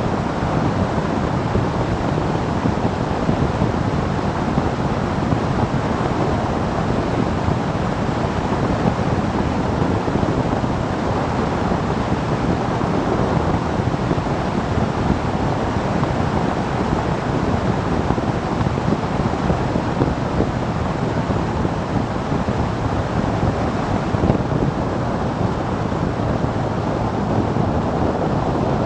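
Steady rush of wind over the microphone of a moving motorcycle, with road and engine noise blended in beneath it.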